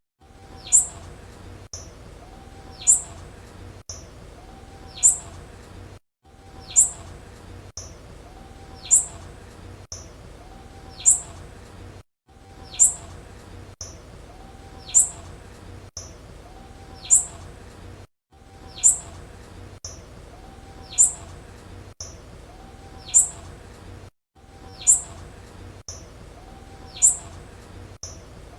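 Female blue-black grassquit (tiziu) call: a short, sharp high chirp sliding down in pitch, repeated evenly about every two seconds.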